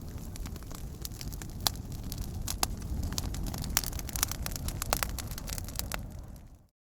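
Campfire burning, crackling with scattered sharp pops over a low steady rumble. It fades out to silence just before the end.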